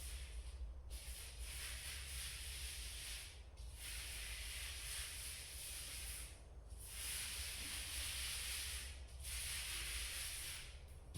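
Paint being applied to a wall in repeated hissing strokes of about two to three seconds each, with short breaks between them.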